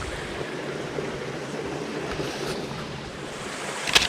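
Spring water running out of a cave, a steady rushing and gurgling. A couple of sharp knocks right at the end.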